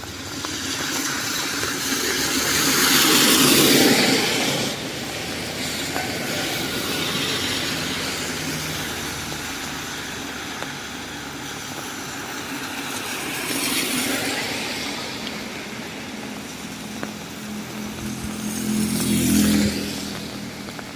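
Heavy typhoon rain pouring steadily, with vehicles passing on the wet road: three swells of tyre hiss, the last near the end carrying an engine hum.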